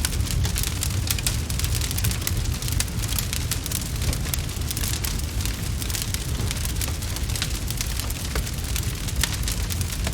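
Wood fire in a fireplace crackling, with many quick irregular pops and snaps over a steady low rumble.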